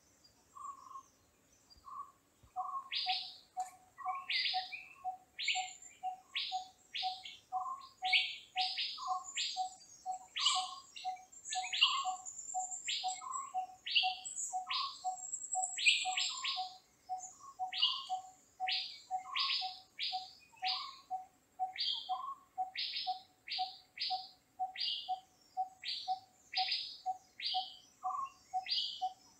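Forest birds calling: a steady piping note repeated about two to three times a second starts about two seconds in, with sharp high call notes about once or twice a second and scattered lower notes over it. A faint high hiss runs underneath.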